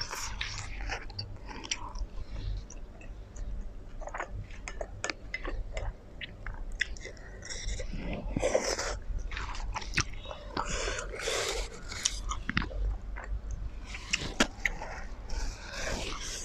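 Close-miked wet chewing of a mouthful of black bean noodles in jjajang sauce, with many small mouth clicks. About eight seconds in, a slurp as more noodles are sucked in from the chopsticks.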